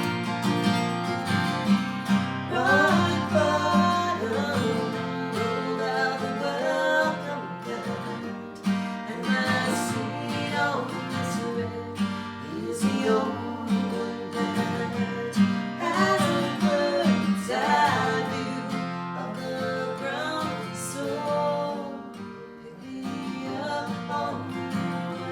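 Live acoustic folk music: strummed acoustic guitar, with a gliding melodic line over the chords.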